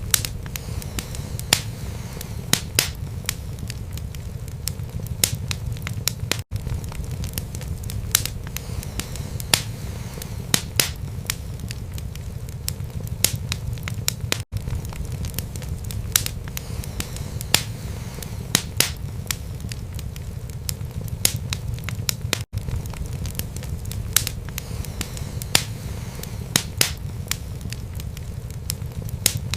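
Wood fire burning in a fireplace: sharp crackles and pops several times a second over a steady low rumble of flames. Brief silent gaps come about every eight seconds, the seams of a looped recording.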